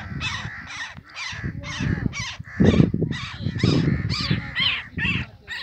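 A bird calling harshly over and over, several short rising-and-falling calls a second. A loud low rumble of noise comes in about halfway through.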